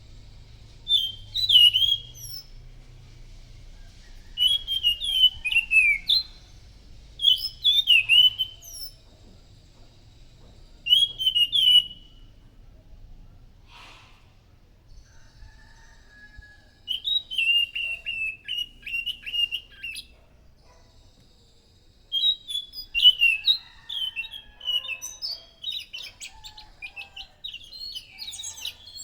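Anis macan (a ground thrush) singing: a series of short, clear whistled phrases with sliding notes, separated by pauses of a second or two, turning into a longer, busier run of notes in the second half. A faint steady high background tone runs underneath.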